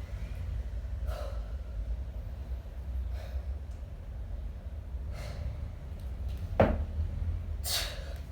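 Short, forceful breaths about every two seconds from a kettlebell lifter working through a one-arm long cycle set, over a steady low rumble. A sharp knock, the loudest sound, comes about two-thirds of the way in.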